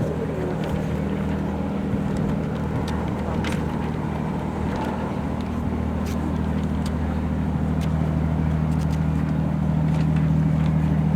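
An engine running with a steady low drone, growing a little louder about eight seconds in, with a few faint ticks above it.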